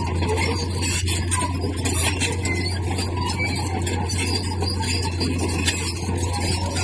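Bulldozer working, its engine a steady low drone under continuous metallic scraping, squealing and clinking, as of steel tracks and blade grinding over stone.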